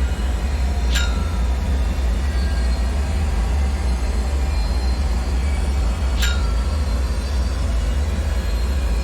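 Dark bunker ambience: a steady deep rumble with faint high metallic whines, and two sharp ringing ticks, one about a second in and another about five seconds later.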